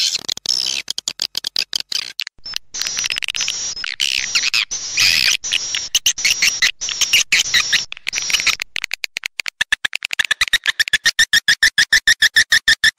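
Swiftlet lure call, a recorded track of edible-nest swiftlet chirping played to attract swiftlets to a nesting house: dense high chattering chirps, changing at about nine seconds to a fast, even train of chirps at about seven a second.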